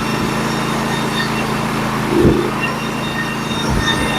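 Engine of a Norwood HD36v2 portable band sawmill running steadily, with a sharp wooden knock a little past halfway and two softer thumps near the end.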